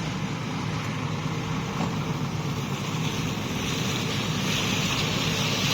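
A vehicle engine running steadily with a low rumble, under a hiss that grows louder from about three seconds in.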